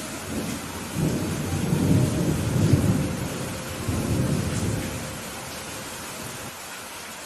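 Steady rain with a low rolling rumble of thunder that swells about a second in, peaks around two to three seconds, and fades away by about five seconds.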